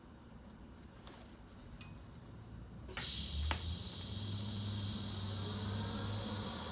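A TIG welding arc strikes about three seconds in with a sharp click, then a second click half a second later. It settles into a steady hiss and hum as the bead is run joining a cast iron exhaust manifold to a stainless steel V-band.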